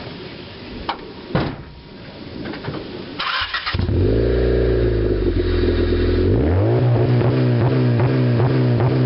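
Honda D15B 1.5-litre four-cylinder engine through its exhaust: after a few clicks it fires up about three and a half seconds in, then about three seconds later is revved up and held against the two-step limiter near 4,000 RPM.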